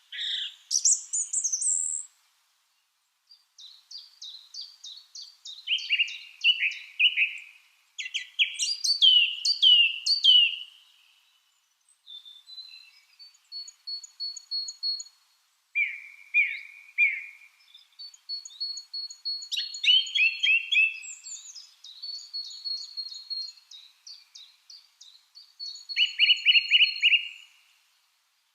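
Lovebirds chirping in quick runs of short, sharp, downward-sliding chirps, with higher thin calls overlapping and a few brief pauses.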